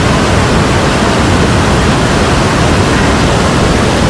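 Waterfall and rock waterslide: a loud, steady rush of falling water.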